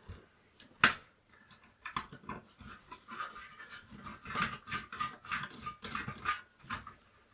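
Handling of a Commodore 64's plastic case as it is opened: scattered clicks and knocks, with a few seconds of irregular scraping and rustling in the middle.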